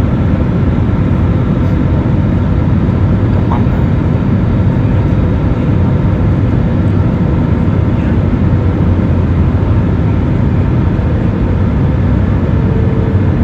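Airliner cabin noise: the jet engines and rushing air make a loud, steady drone. A faint steady hum rises a little near the end.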